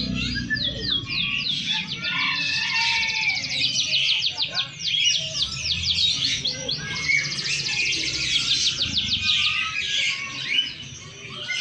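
Many caged songbirds singing at once: a dense overlapping chorus of fast trills, repeated chirps and sweeping whistles.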